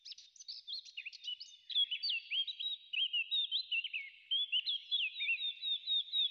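Birdsong: a continuous run of quick chirping and warbling notes, faint at first and louder from about two seconds in.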